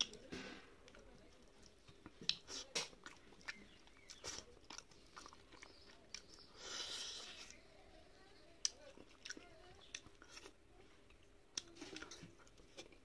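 Close-up eating sounds of rice and fish curry eaten by hand: chewing with scattered wet lip smacks and mouth clicks, and a longer slurp about halfway through as the fingers are sucked.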